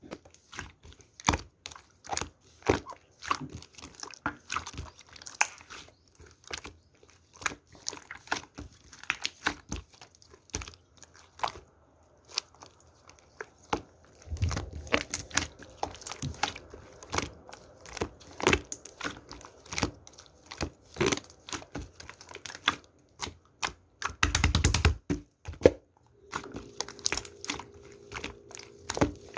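Slime being kneaded and pressed by hand, giving a fast, irregular stream of sharp clicks and pops. A faint steady hum comes in near the end.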